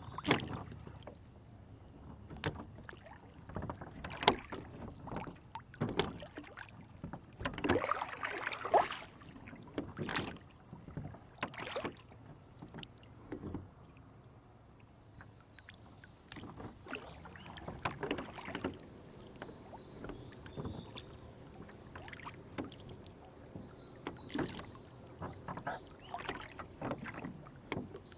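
Rowboat on a lake being rowed: oars dipping and splashing, with water sloshing against the hull in irregular strokes. The strokes are loudest about eight seconds in.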